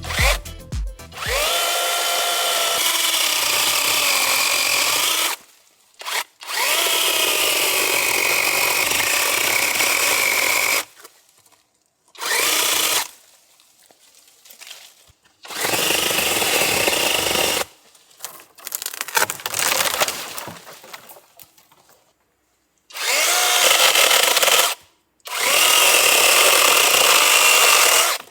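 Onevan dual-battery brushless cordless top-handle chainsaw with a 16-inch bar running in a series of bursts of one to four seconds as it cuts into a dead tree. Its motor whine sweeps up at each trigger pull and then wavers under load.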